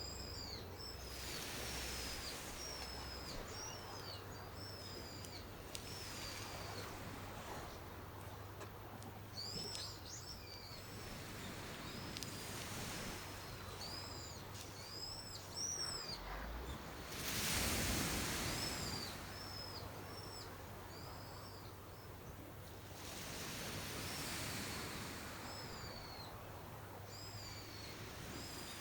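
Birds calling in short, high chirps, repeated in runs throughout, over a rushing noise that swells and fades several times and is loudest a little past the middle.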